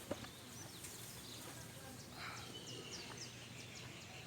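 Several birds chirping in short, quick, downward-sweeping calls over a faint outdoor murmur, with a single click just after the start.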